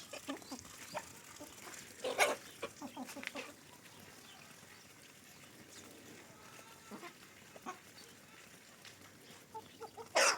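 Chickens clucking, broken by short sudden noises; the loudest comes about two seconds in and another near the end.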